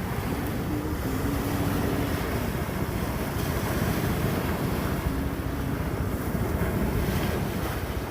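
Wind buffeting the microphone in a steady low rumble, with ocean surf washing underneath.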